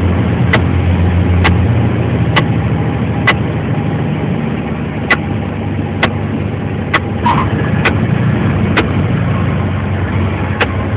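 Cessna 172's four-cylinder piston engine running steadily, with sharp clicks about once a second over the hum.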